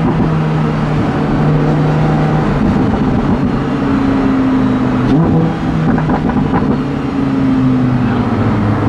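Lamborghini Huracán's V10 engine running hard under throttle, its pitch shifting up and down a few times. A few short exhaust crackles come a little past halfway.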